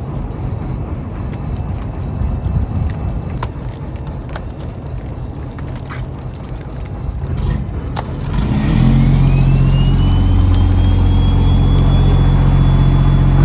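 Fishing boat's engine running with a low rumble and occasional knocks; about eight seconds in it gets clearly louder and steadier, with a high whine rising in pitch, as the engine is throttled up.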